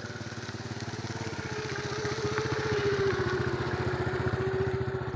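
A small engine, most like a motorcycle's, running steadily, growing louder toward the middle and easing off near the end.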